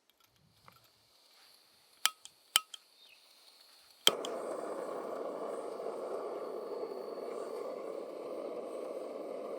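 A couple of light clinks with a short ring, then a sharp click about four seconds in and a sudden steady rushing noise that carries on.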